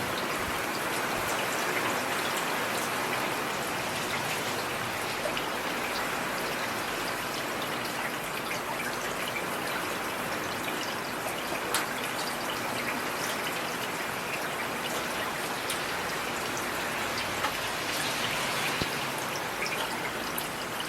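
Heavy rain falling steadily: a dense, even hiss with scattered sharper drop impacts.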